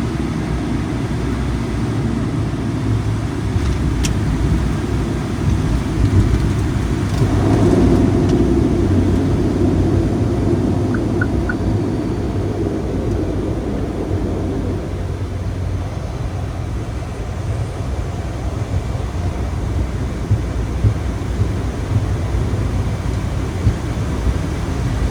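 ATR 72-600 on its landing rollout: a steady low rumble of the turboprop engines and wheels on the runway. It swells for several seconds from about 7 seconds in, then eases back.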